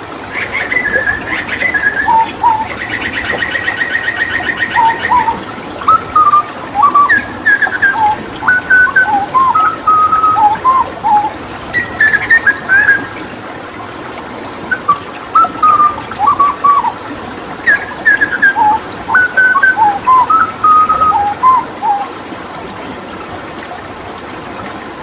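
Hooded butcherbird singing in phrases of short, clear whistled notes that glide up and down, with a fast, even trill from about three to five seconds in and brief pauses between phrases.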